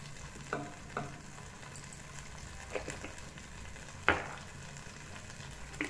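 Tomato and onion masala sizzling in oil in an aluminium pot, a steady frying hiss. A few short knocks sound over it, the loudest about four seconds in.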